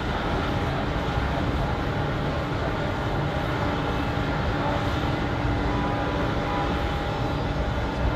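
Jet airliner engines running, a steady low rumble with a few faint, steady whining tones above it.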